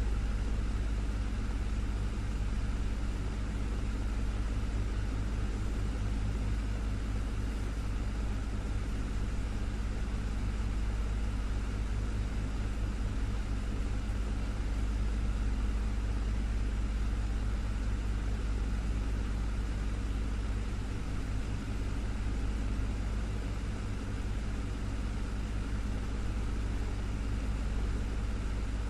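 Desktop electric fan running steadily, a low motor hum under an even rush of moving air.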